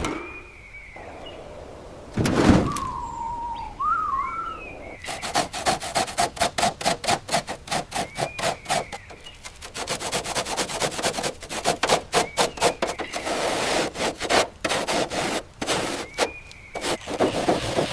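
A hand tool rubbing and scraping on rusted metal in quick repeated strokes, about four or five a second, starting about five seconds in. Before that comes a thump and a short falling squeal, and brief high chirps recur throughout.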